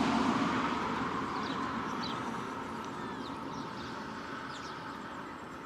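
A vehicle passing and fading away, with a few short, high chirps from small birds over it.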